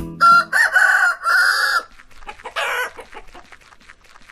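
A rooster crowing once, a long cock-a-doodle-doo, followed by a shorter squawk and then soft, quick clucking.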